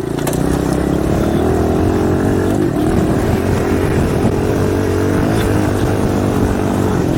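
Small 110cc dirt bike engine running as the bike is ridden, at a fairly steady pitch, with wind noise on the microphone.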